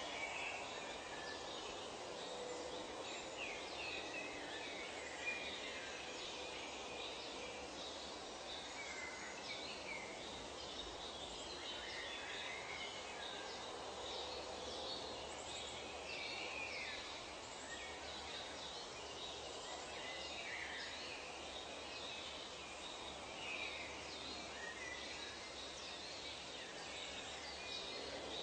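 Nature ambience of many birds giving short, scattered chirps and calls over a steady background hiss.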